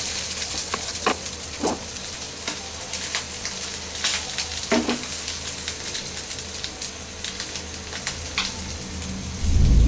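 Pieces of rui (rohu) fish roe frying in hot oil in a nonstick pan, second side down after being turned: a steady sizzle with scattered crackles. A loud low thump comes just before the end.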